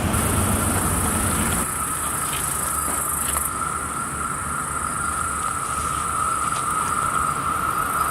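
A steady high-pitched whine from the rails, growing stronger near the end as an approaching train nears, with a high hiss above it and a low rumble underneath.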